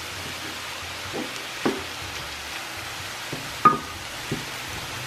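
Ground beef, onion and bell peppers sizzling steadily in a cast iron skillet while a spoon stirs them, knocking against the pan about five times.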